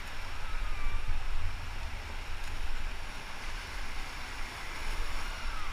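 River water rushing around the raft, with wind rumbling on the microphone.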